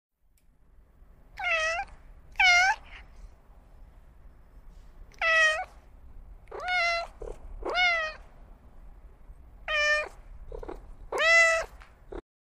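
Cat meowing, seven short, high meows with pauses of one to two seconds between them.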